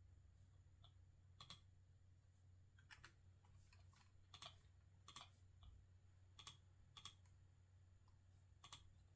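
Quiet, scattered taps on a computer keyboard, about seven separate strikes a second or so apart, over a steady low hum.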